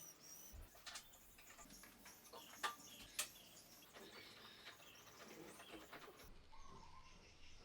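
Faint bird chirps against a quiet background, with two sharp clicks a little over halfway through.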